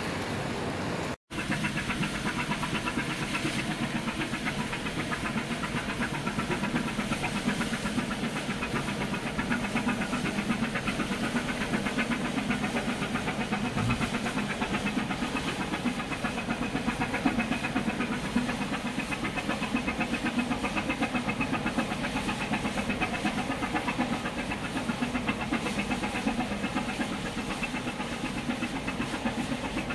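Container ship's diesel engine running steadily, a fast even pulsing over a hum, with a brief gap in the sound about a second in.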